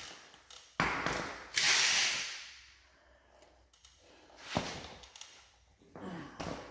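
Workshop noises during teardown of a Ford 8-inch rear differential. A sharp knock comes about a second in, then a short, loud hiss-like rush of noise, then a few smaller clicks and knocks.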